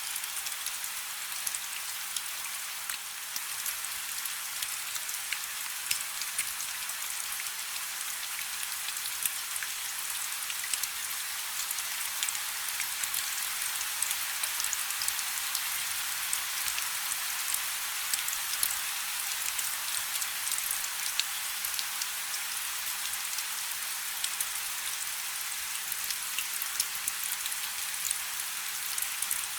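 Steady rain falling on a river's surface, a dense, even patter of countless small drops with the odd louder drop standing out.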